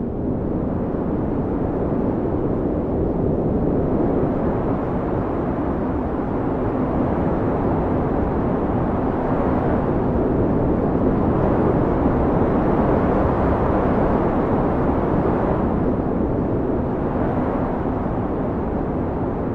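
Blizzard wind blowing hard in a steady rush of noise that slowly swells and eases in long gusts, with a faint steady hum beneath it.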